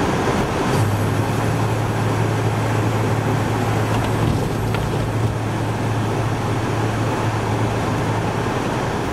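A vehicle engine running steadily, a low hum that comes in about a second in, over a continuous rushing noise.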